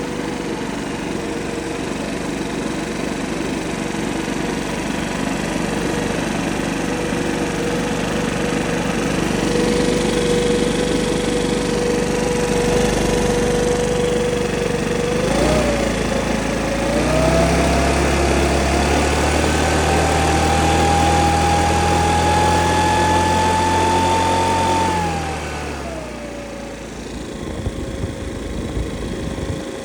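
Makita EB7660TH backpack blower's four-stroke engine running steadily at low speed, then opened up about halfway through, the pitch slowly climbing while held at high throttle, before dropping back to low speed near the end.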